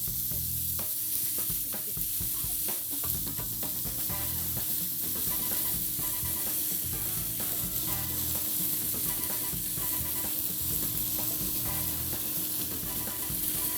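Chicken breast strips frying in olive oil in a pan, sizzling steadily.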